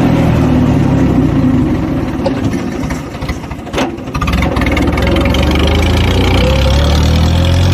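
Mahindra 575 DI tractor's four-cylinder diesel engine running through an aftermarket Holland silencer. It drops back for about a second around three seconds in, then runs steady and loud again.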